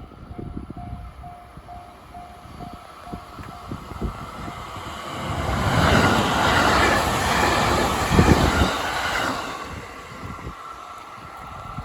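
A Japanese level-crossing warning bell clangs about twice a second. Then a JR Tokaido Line local electric train runs past the crossing, building up and passing close from about five to nine seconds in, with heavy wheel thumps over the rail joints near eight seconds, and fades away near the end.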